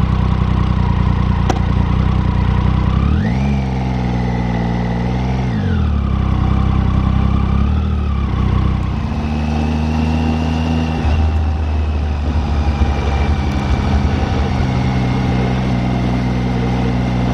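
Triumph Tiger 800 three-cylinder motorcycle engine pulling away and riding. Its pitch rises about three seconds in, holds, and drops again near six seconds, then runs steady through later gear changes. A high whine rises and falls with it.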